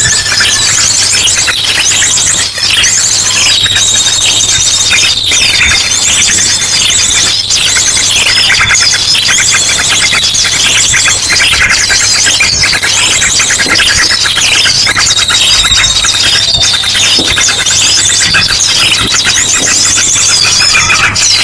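Bird-lure recording: a loud, dense chorus of many small birds calling and chirping at once, mixed with ashy drongo calls, running without a break. A high held whistle-like note comes in twice, and a steady low hum lies underneath.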